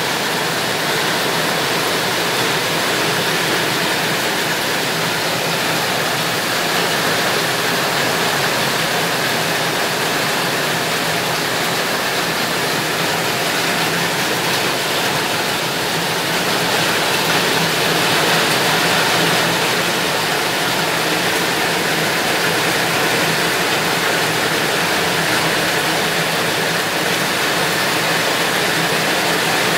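Heavy tropical rain pouring steadily on garden foliage, roofs and ground, a dense even hiss without any break.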